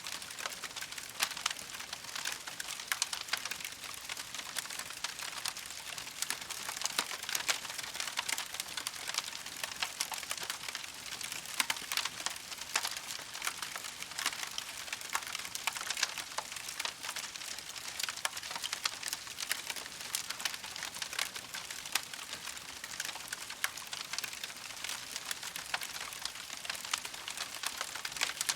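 Campfire of burning wood crackling and popping steadily, with many small sharp snaps over a soft hiss.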